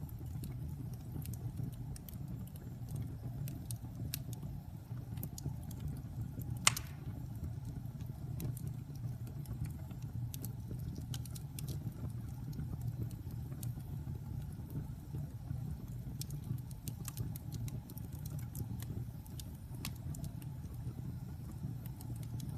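Wood fire burning in a fireplace: a steady low rumble with scattered crackles, and one loud pop about seven seconds in.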